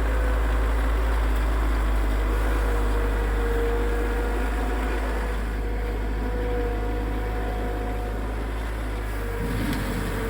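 A vehicle engine running steadily: a low rumble with a faint wavering whine above it.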